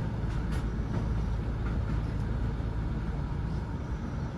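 British Rail Class 156 diesel multiple unit running along the line: a steady low rumble of engine and wheels on rail, with a few faint clicks in the first second.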